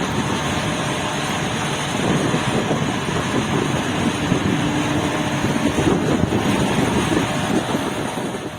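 Kirovets K-700 graderdozer's turbocharged YaMZ-238 V8 diesel running steadily, a little louder from about two seconds in and fading out at the end.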